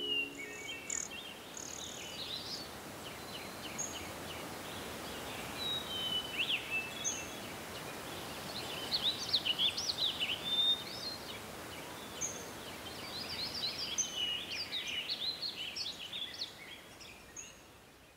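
Several songbirds chirping and trilling over a steady outdoor hiss, busiest in the middle and again near the end, then fading out over the last couple of seconds.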